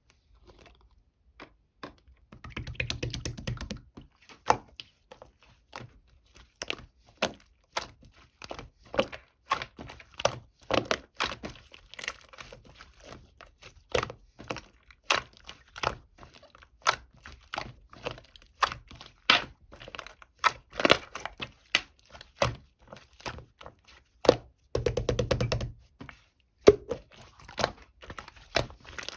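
Objects being handled at close range: a string of irregular taps, clicks and knocks with some crinkling, and two short rapid rattles, one about three seconds in and one near the end.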